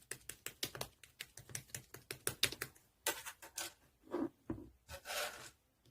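A quick run of small, sharp clicks, about seven a second, for about three seconds, followed by a few slower, duller knocks and a short rustle near the end.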